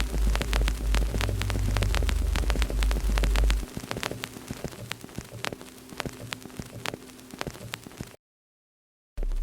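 Wood fire crackling with frequent sharp pops, over a loud low rumble that stops a few seconds in. Near the end the sound cuts out completely for about a second.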